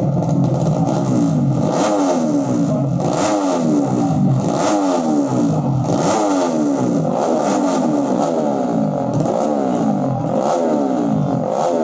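Engines of 200 cc underbone drag-racing motorcycles revving hard. The pitch climbs and drops back over and over, about once a second, with more than one engine overlapping.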